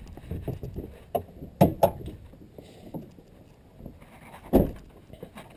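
Scattered knocks and clunks, a few sharp ones among them, as the pickup's hood is released and lifted.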